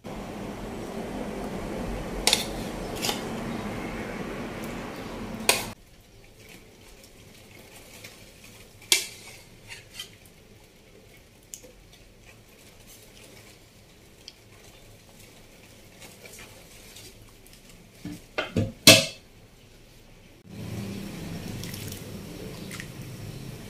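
Soup bubbling in a nonstick pan on the stove, with a spoon knocking and clinking against the pan several times and a quick cluster of louder knocks near the end.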